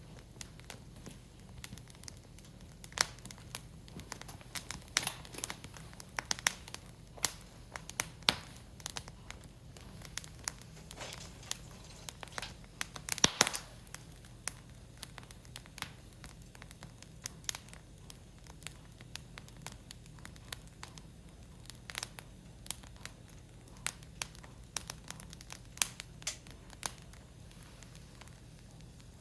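Split firewood burning in an open fire pit, crackling with irregular sharp pops, the loudest about 13 seconds in.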